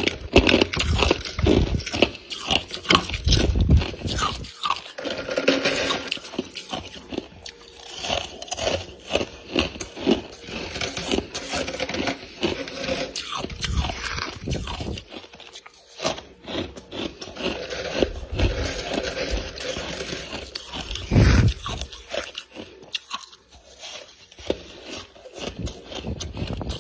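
Close-miked crunching and squeaking of freezer frost being bitten and chewed, in irregular crackly bites with a few louder crunches.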